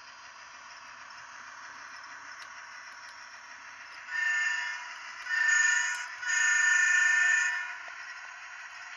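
Model train locomotive's horn sounded through its small onboard speaker: a short blast, a second slightly longer one and a long one, starting about four seconds in, over a steady background hiss.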